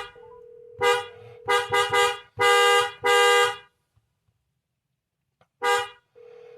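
Car horn honked repeatedly to scare off a bear: one blast, a few quick toots, a longer blast of about a second, then after a pause one more short toot near the end.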